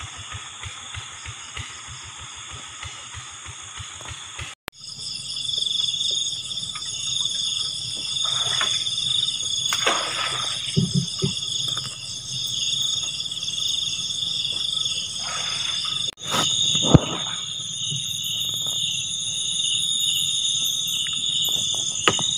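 Night chorus of insects: several overlapping high-pitched pulsing trills and drones, stronger from about four seconds in. A regular low ticking sounds underneath during the first few seconds.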